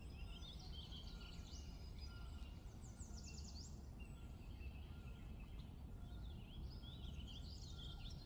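Faint birdsong: several birds chirping and trilling, busiest about three seconds in and again near the end, over a low steady background rumble.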